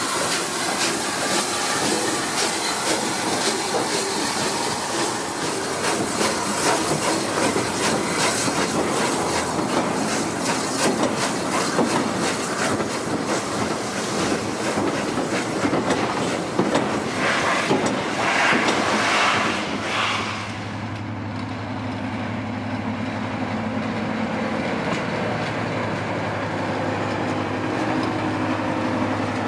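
Steam locomotive working along the track: steam and exhaust noise with a dense clatter of wheels on rail, loudest shortly before two-thirds in. Then a sudden change to the steady low drone of a Class 55 Deltic diesel locomotive's engines idling or ticking over.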